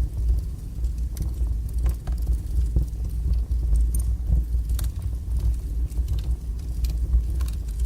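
Wood fire burning strongly, a steady low rumble of flames with scattered sharp crackles and pops.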